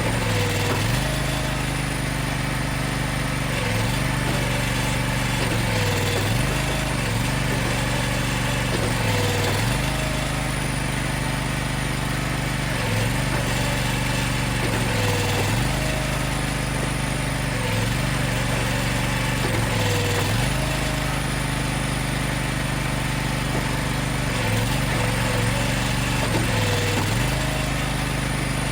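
Engine running steadily, its pitch dipping briefly every two to four seconds as it takes a load and then recovering.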